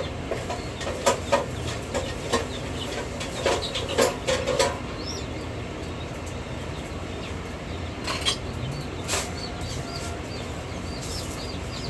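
Chickens in a coop: a scatter of sharp knocks and scuffles in the first half, with a run of short, high peeps in the second half.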